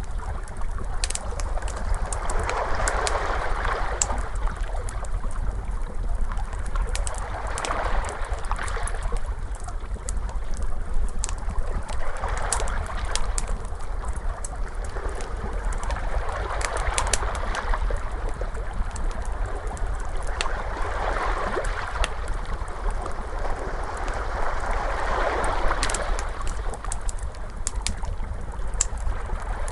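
Ocean waves washing in, a swell about every four to five seconds, over a low steady rumble, with a crackling fire's sharp pops and snaps scattered through.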